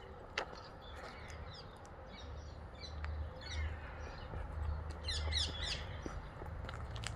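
Small songbirds calling in quick runs of short, falling chirps, several bursts with the loudest about five seconds in, over a low rumble.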